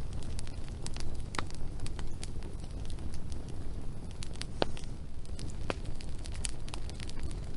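Wood fire burning: a steady low rumble of flames with scattered sharp crackles and pops from the burning wood, a few louder pops about a second and a half in and twice past the middle.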